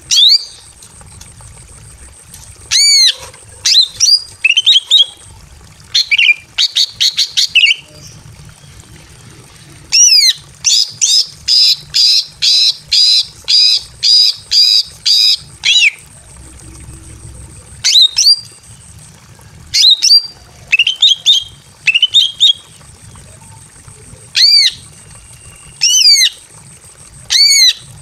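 Female greater green leafbird (cucak ijo) giving loud, sharp, arching calls, one at a time, with a quick run of about ten notes in the middle: a female in breeding condition calling for a male.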